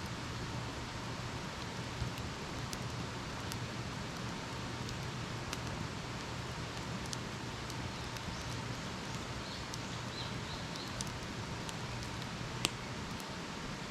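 Campfire of burning wood crackling, with scattered sharp pops over a steady hiss; one pop near the end is the loudest.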